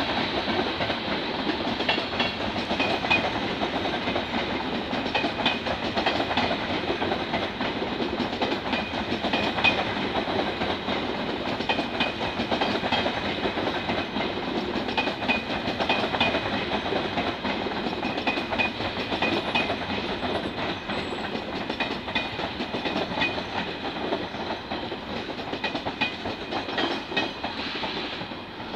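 Passenger train rolling slowly along station tracks: a steady rumble of wheels on rails, with brief high squeaks every few seconds.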